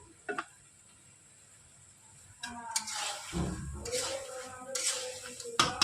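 A spoon scraping and clinking against a pot of frying chicken masala, starting about two and a half seconds in, with a voice heard over it.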